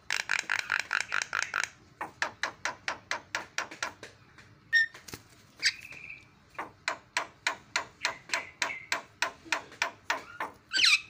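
Javan myna chattering: a fast run of short, harsh repeated notes, several a second, loudest in the first two seconds. A couple of brief whistles break in midway, and there is a louder squeaky call near the end.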